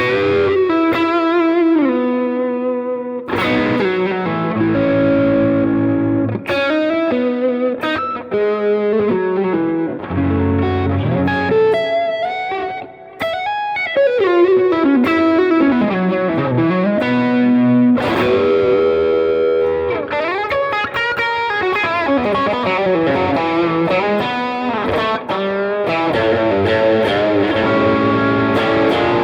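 Suhr Classic S electric guitar with single-coil pickups, played through effects. It plays melodic lines and chords, with many bent and sliding notes.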